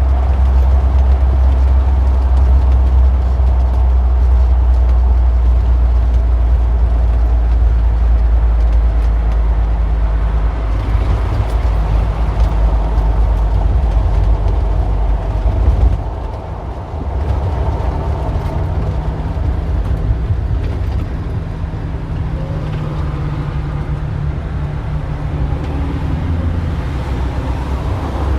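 Street traffic: cars and other motor vehicles running and passing in a steady wash of engine and tyre noise. A heavy deep rumble fills the first half and drops away suddenly about halfway through, leaving lighter engine hum.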